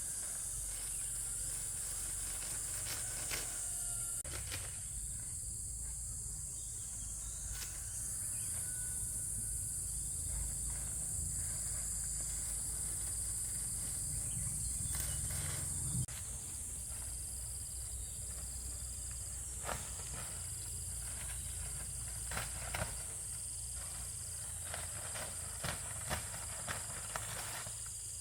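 Steady high-pitched chorus of insects such as crickets, with scattered light knocks and clicks from work close by.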